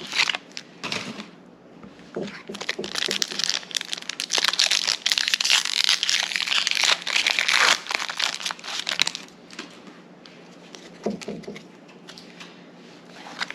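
Foil booster-pack wrapper being torn open and crinkled by hand, the crinkling heaviest through the middle stretch, then settling to quieter, scattered rustling.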